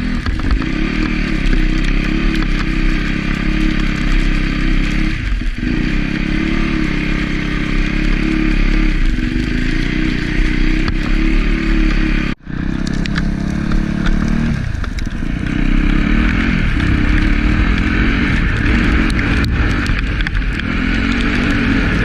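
Yamaha YZ250F dirt bike engine running under way, its revs rising and falling as the rider opens and closes the throttle. The sound cuts out briefly about halfway through.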